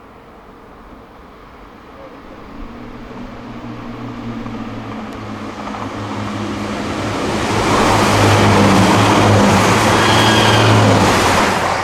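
Diesel passenger train approaching and running through the station without stopping. Its engine drone builds steadily and is joined by a rising rush of wheel and air noise. The train is loudest for the last few seconds as it reaches and passes, then the level drops sharply.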